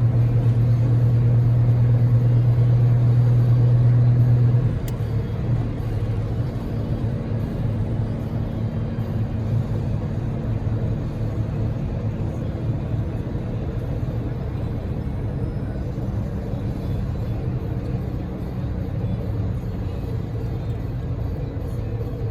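Cabin noise of a Daihatsu Move kei car driving at speed in heavy rain: a steady loud low drone for the first four and a half seconds that drops away suddenly, then an even wash of road, tyre and rain noise.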